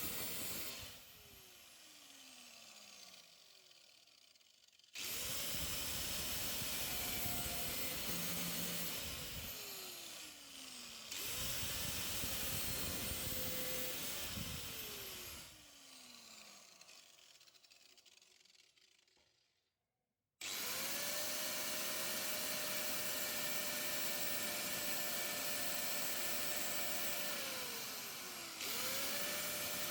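Handheld power tool run in repeated bursts on sheet metal, about four times. Each start spins up to a steady whine with a gritty cutting noise, and each release winds down with a falling tone.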